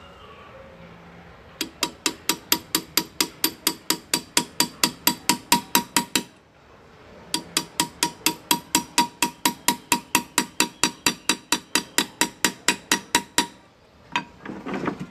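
Hand-engraving hammer tapping a graver chisel into metal, about five even taps a second with a short metallic ring on each. Two long runs with a brief pause between them, and a few looser knocks near the end.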